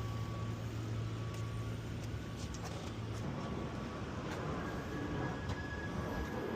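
Outdoor street traffic noise with a steady low engine hum, which stops about three seconds in.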